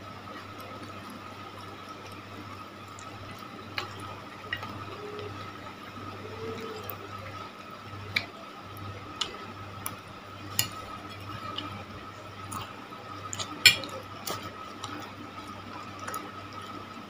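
Close-up eating sounds of cilor and macaroni: wet chewing and mouth clicks, with occasional taps of a metal spoon on a ceramic plate, one sharper click about three-quarters through. A steady hum runs underneath.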